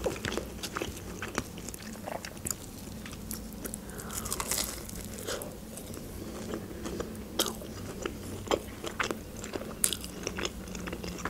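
Biting into and chewing a breaded fried chicken nugget, with scattered short crunches and mouth clicks throughout.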